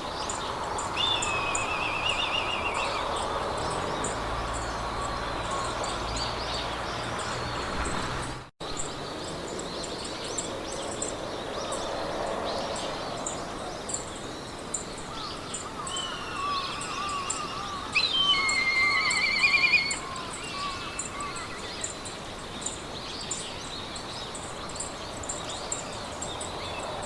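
Meadow ambience: birds singing short warbling trills over a steady, evenly repeating high insect chirp and a soft background hiss. Birdsong is loudest about two-thirds of the way in. A split-second dropout in the sound comes about a third of the way in.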